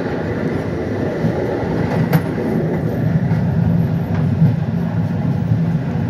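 Intercity passenger train running along the rails, heard from inside the rear of the train: a steady low rumble, with a sharp click about two seconds in and a fainter one a couple of seconds later.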